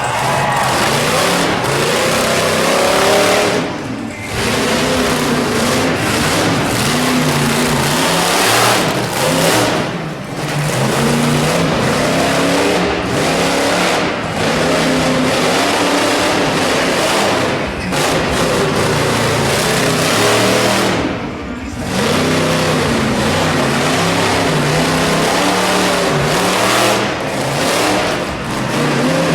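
Monster truck engine running loud and revving hard, its pitch rising and falling as the throttle is worked, with brief throttle lifts about 4, 10 and 21 seconds in.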